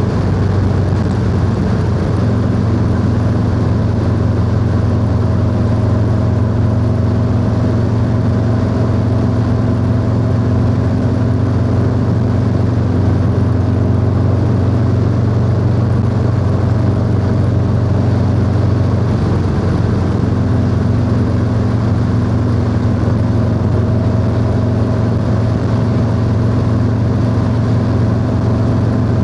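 Harley-Davidson Low Rider S V-twin running at a steady cruise through a 2-into-1 exhaust, heard from the rider's seat. The engine note holds nearly constant, with small shifts in pitch about two seconds in and again about two-thirds of the way through.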